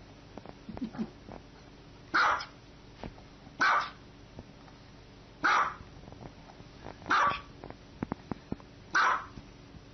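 Small white dog barking: five short, sharp barks at a steady pace, one about every second and a half to two seconds.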